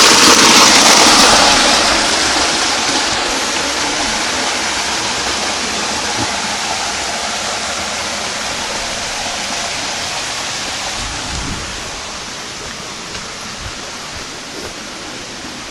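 Rushing water of a forest river, a steady hiss that grows gradually fainter over the first dozen seconds.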